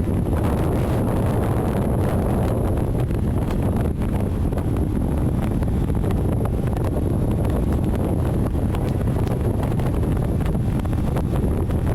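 Wind buffeting the microphone of a moving vehicle, a steady low rumble over road noise, with faint scattered ticks.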